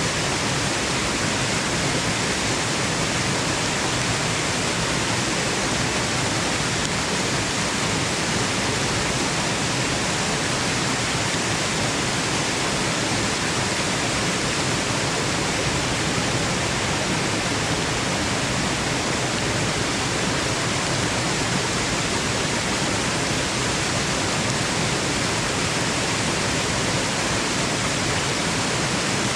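Waterfall rushing in a steady, even hiss like white noise, unchanging in level.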